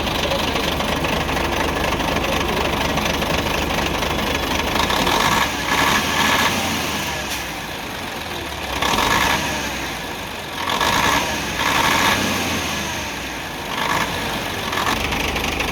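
Nissan PF6 six-cylinder diesel engine running unevenly, with several short louder surges in the second half. The misfire comes from one of the six cylinders being dead, which the mechanic traces to No. 5 injection-pump plunger delivering no diesel.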